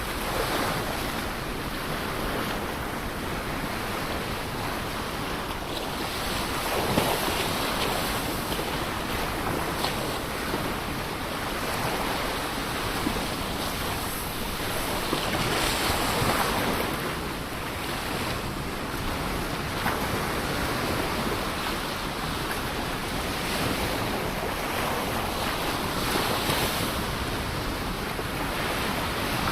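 Ocean waves breaking and washing in continuously, swelling and easing every several seconds, with wind on the microphone.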